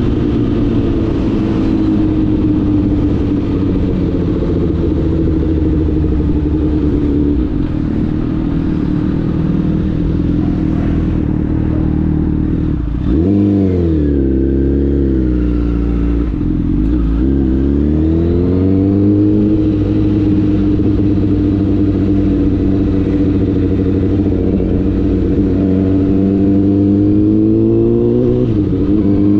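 Honda CBR1000RR's inline-four engine running under way. Its note holds steady for long stretches, then drops and climbs back about halfway through, twice in a row, and once more briefly near the end.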